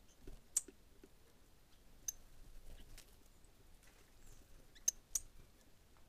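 Four short, high-pitched bird chips, spaced irregularly: one about half a second in, one about two seconds in, and a quick pair near the end.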